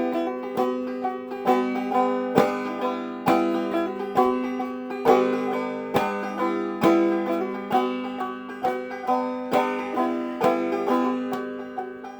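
Five-string banjo played clawhammer style, an instrumental passage of steady rhythmic picking and brushed strums with no singing, getting gradually quieter toward the end.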